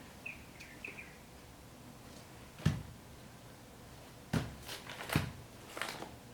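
Footsteps in Nike Air Force 1 sneakers on a hard floor: four separate thuds spread over the last few seconds, with three brief faint squeaks near the start.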